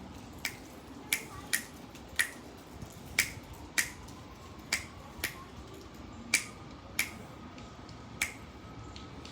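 About a dozen sharp snaps or clicks at an uneven pace, roughly one every half second to a second, over a faint background hum.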